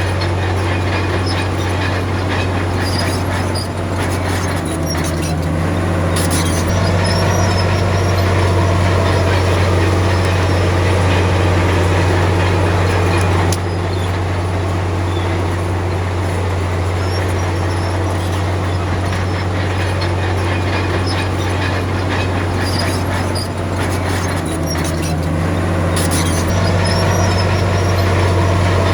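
Komatsu D53P bulldozer's diesel engine running steadily under load, its note shifting a couple of times, with a few short metallic clanks from the machine.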